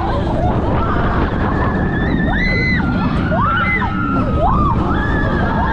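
Roller coaster ride noise: a steady low rumble with wind buffeting the microphone, and several short rising-and-falling shouts or screams from riders over it.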